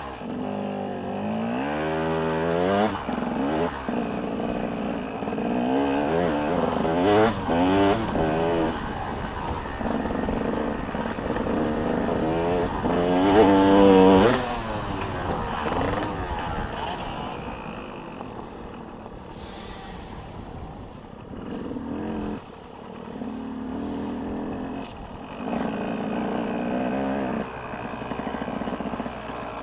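Motocross bikes' engines revving hard, pitch climbing and dropping through gear changes in repeated sweeps, loudest about halfway through, then quieter and intermittent.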